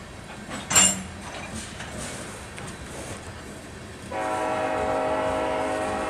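Freight locomotive air horn sounding one long steady blast starting about four seconds in, over the running noise of a slow-moving freight train. A brief sharp metallic noise comes about a second in.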